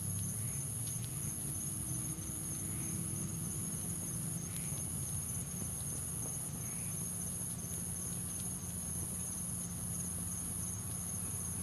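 Crickets chirping, a steady high-pitched trill that keeps on without a break, with a few faint ticks under it.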